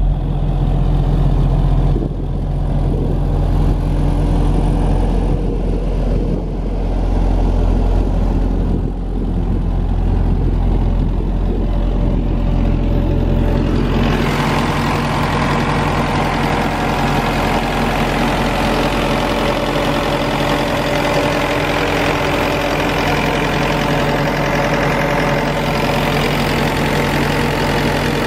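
Diesel engine of an Atlas Copco XAMS286MD portable air compressor, a Mercedes 904LA, running steadily. About halfway through the sound brightens, with more hiss-like high-pitched noise over a lighter low hum.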